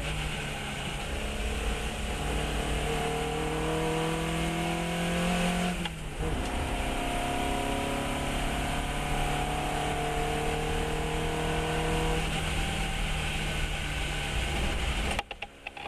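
Fiat 132 race car's four-cylinder engine under hard acceleration, its pitch climbing steadily, breaking briefly for an upshift about six seconds in, then climbing again before levelling off. Near the end the throttle closes and the sound drops suddenly, with a few pops.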